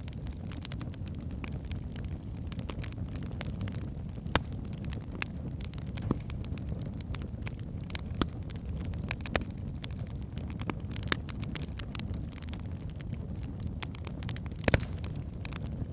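Log fire burning in a fireplace: a steady low rumble with frequent irregular crackles and pops, a few sharper pops standing out, the loudest near the end.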